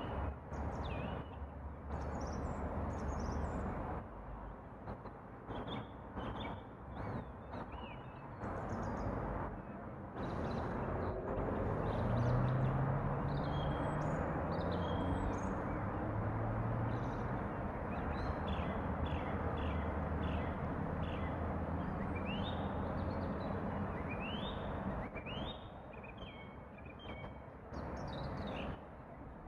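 Small songbirds chirping and calling over a steady outdoor background hiss, with many short falling notes in the second half. In the middle a distant engine drones, rising in pitch, then fades.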